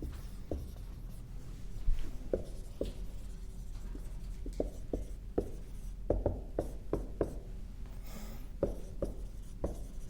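Someone writing by hand: a run of short, irregular pen or marker strokes and taps.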